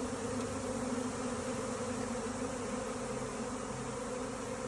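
A honeybee swarm in flight buzzing all around, a steady hum. The swarm is arriving to move into empty hive equipment.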